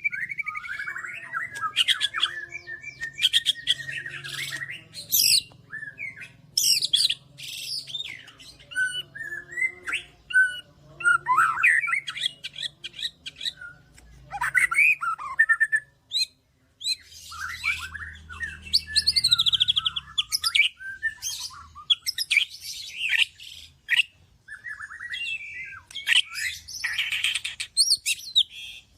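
White-rumped shama (murai batu) singing a long, varied song of rich whistles, rapid trills and harsh chattering notes, with a short pause about halfway through. The bird is in full, vigorous song ("gacor").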